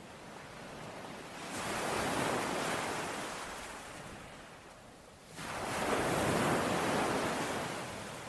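Ocean waves breaking on a shore: two surges of surf, the first building about a second and a half in and washing out, the second rising more sharply past the midpoint and then fading.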